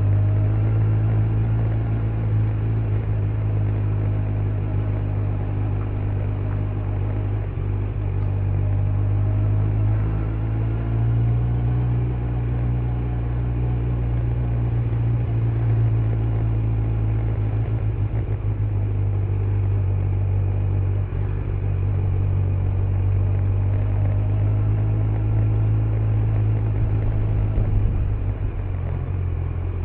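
Kawasaki Z900's inline-four engine with stock exhaust running at low, fairly steady revs, the pitch wavering gently, heard from a rider's backpack microphone. Near the end the revs shift briefly.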